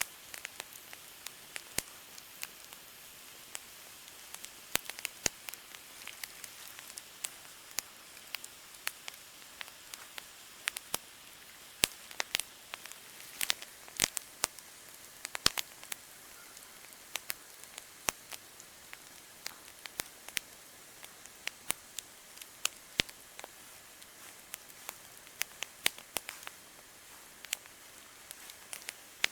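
Wood campfire crackling: irregular sharp snaps and pops, several a second at times, over a soft steady hiss.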